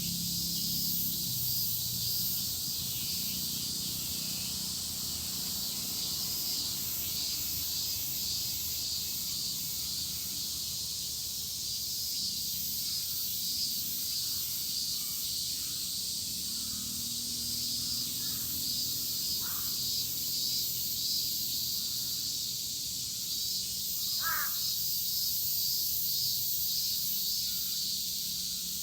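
A chorus of cicadas shrilling steadily with a fine pulsing texture. A crow caws a few times in the second half, most clearly near the end.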